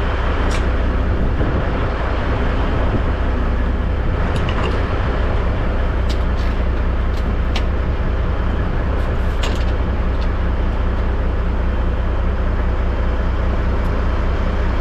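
Diesel semi-truck engine idling steadily, with a few short metallic clicks from air-line and hydraulic-line couplings being handled as the trailer is unhooked.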